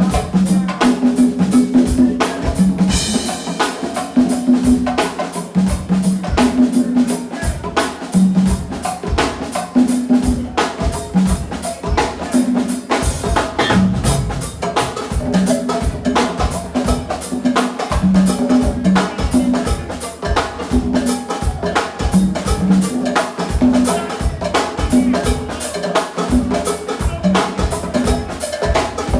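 Live go-go band playing an instrumental groove: a drum kit and percussion keeping a dense, steady beat over a repeating bass line.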